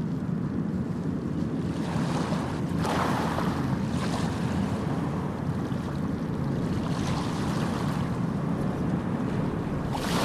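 Small sea waves washing onto a sandy beach: a steady low rush with a hissing surge of breaking water about two to three seconds in, a lighter one around seven seconds, and another near the end.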